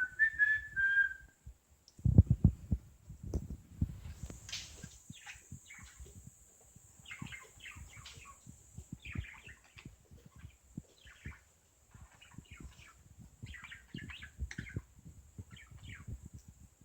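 Budgerigar chattering in many short, quick chirps from about four seconds in. A short whistled note comes at the very start, and low thumps of handling noise come about two seconds in.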